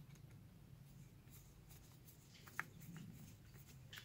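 Near silence: faint room hum with a few soft, small clicks of parts being handled.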